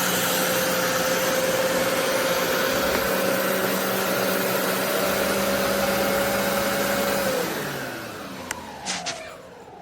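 BISSELL Revolution HydroSteam Pet carpet cleaner's 1300 W suction motor running steadily, then switched off about seven seconds in and spinning down with a falling whine. A few light clicks near the end.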